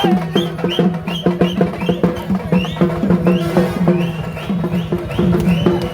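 Live ritual drumming for the Pettai Thullal: a fast, even beat of pitched drum strokes, about five or six a second, with short high sliding sounds over the drums.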